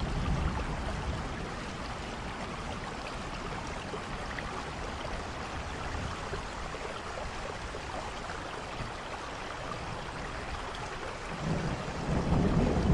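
Steady rain falling, with a low rumble of thunder that dies away in the first second or so and builds again near the end.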